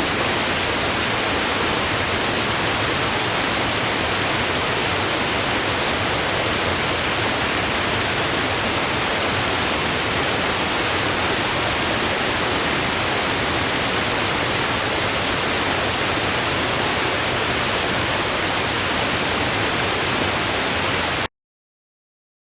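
A steady, unchanging rushing hiss, even across low and high pitches with no swells or rhythm, that cuts off suddenly near the end.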